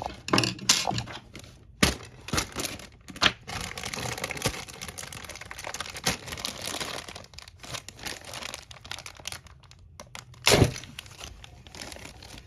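Plastic packaging of model-kit parts being handled and opened: irregular crinkling and rustling, broken by sharp clicks and knocks, the loudest near the start and about ten seconds in.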